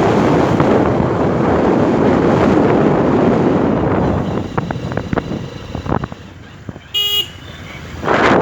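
Wind rushing over the microphone of a moving motorcycle, dying down about four seconds in, then a single short vehicle horn toot about seven seconds in before the wind noise builds again.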